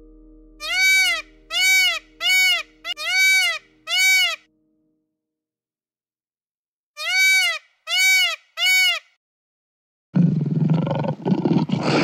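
An animal giving loud, pitched calls that each rise and fall, five in quick succession, then three more after a short silence. Near the end a different loud, rough, low sound sets in abruptly.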